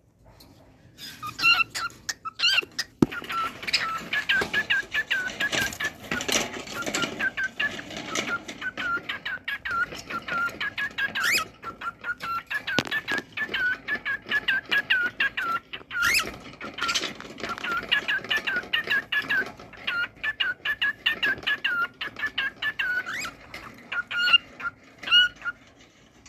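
Cockatiel singing: a long run of quick, short whistled chirps at a steady pitch, broken now and then by a sharp upward-sliding whistle.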